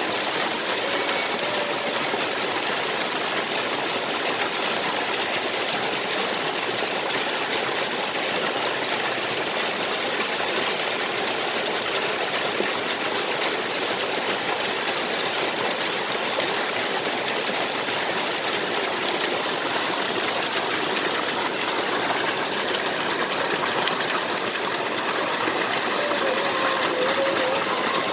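Waterfall pouring into a stream, a steady, even rush of falling and flowing water.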